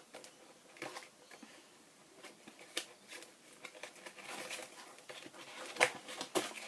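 Hands working a plastic toy free of its packaging: scattered clicks, taps and short rustles, the loudest a few sharp clicks near the end.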